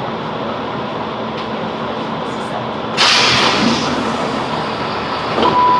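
Interior running noise of a Chiltern Railways Class 165 Networker Turbo diesel train, a steady rumble with a sudden loud hiss about three seconds in that fades over a second. Near the end the onboard announcement chime sounds two falling notes.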